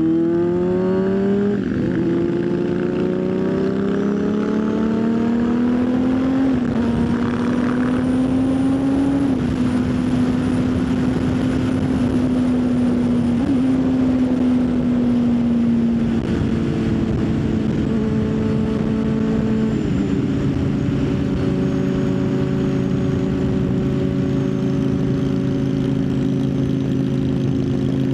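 Motorcycle engine pulling through the gears: its pitch climbs and drops at upshifts about 1.5 and 6.5 seconds in, then holds steady at cruising speed. The pitch steps lower twice in the second half. Steady wind and road noise throughout.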